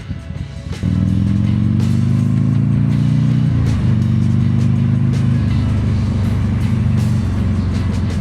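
Motorcycle engine accelerating from the rider's bike, pitch climbing and then dropping at a gear change about three and a half seconds in, with another change a couple of seconds later before it runs steadily.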